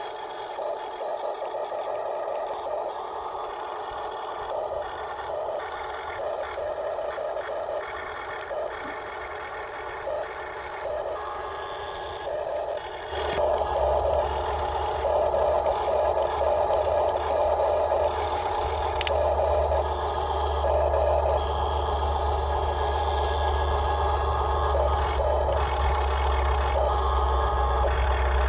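Huina remote-control dump truck running: a steady motor and gear whine with rattling, broken by short repeated beeps. About halfway through, a louder steady low hum joins in and carries on.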